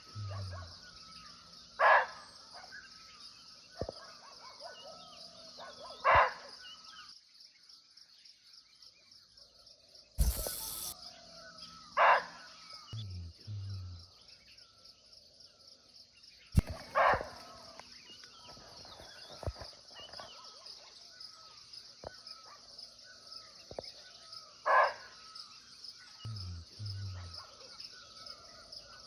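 Barking deer (muntjac) giving single sharp barks, five in all, spaced four to seven seconds apart, over a steady high insect drone and scattered bird calls.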